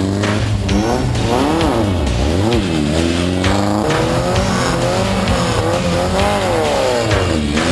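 Stock air-cooled VW Beetle flat-four race engine revving hard, its pitch rising and falling over and over as the throttle is worked and released.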